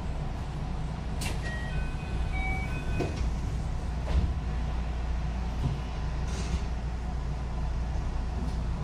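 Running sound of a JR West 221 series electric train heard from on board: a steady low rumble of wheels on rail, with a few sharp knocks and several brief high squeaks about two seconds in.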